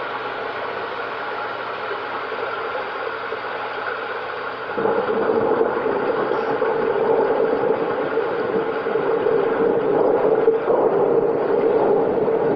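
Steady rain, a dense even rush that grows heavier and louder about five seconds in.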